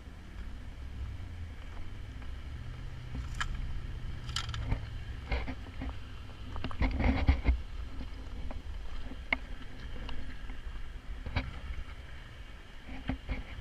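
LS V8-swapped Jeep TJ engine running low and steady at crawling speed, with scattered sharp knocks and clatters, loudest in a cluster about halfway through.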